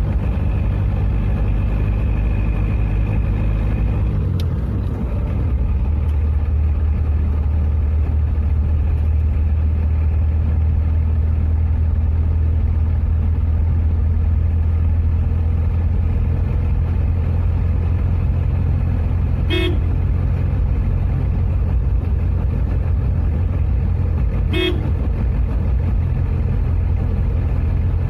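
Car engine running steadily from inside the cabin, its note dropping about four seconds in as the manual gearbox is shifted up from fourth to fifth. Two short horn toots sound a few seconds apart in the second half.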